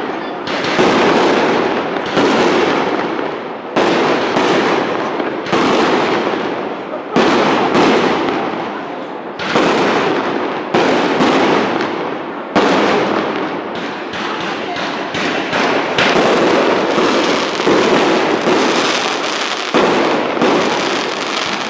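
Aerial firework shells bursting in a steady series, one bang every one to two seconds, each followed by a long fading tail.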